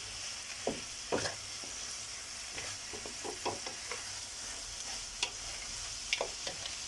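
Vegetables and fish frying in a pan with spices, sizzling steadily while a spoon stirs them, with scattered scrapes and clicks of the utensil against the pan.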